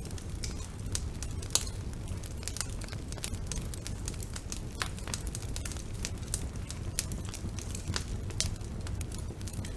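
Wood fire burning in a fireplace: irregular sharp crackles and pops over a steady low rumble of the flames, with one louder pop about a second and a half in.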